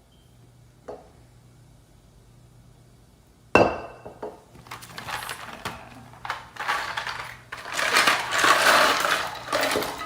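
Kitchen clatter: a sharp clank of a pot or utensil about three and a half seconds in, with a brief ring, followed by irregular rattling and clinking of dishes and utensils that gets louder near the end.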